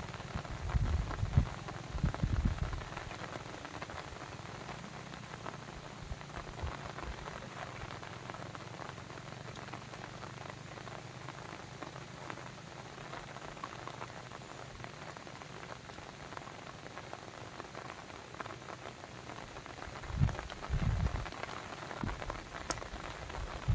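Steady rain falling, a dense patter of drops, with two short low rumbles, one near the start and one near the end.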